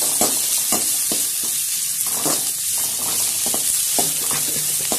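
Sliced onions sizzling in hot oil in a kadai as they are sautéed. The spoon clicks and scrapes against the pan now and then as they are stirred.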